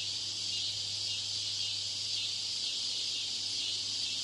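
Steady high-pitched hiss with a faint low hum underneath: the background noise deliberately laid into the test audio to imitate a poor exam-hall PA system and its surroundings.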